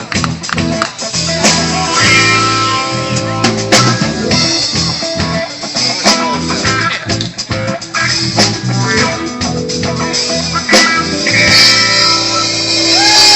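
A band playing: guitar over a drum kit.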